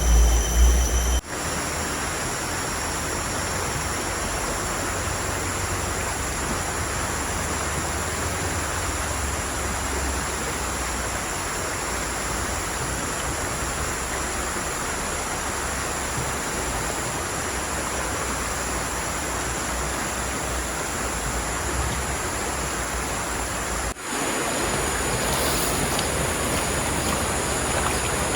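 A low rumble that cuts off suddenly about a second in, then a steady, even rush of water noise, a little louder after a brief dip near the end.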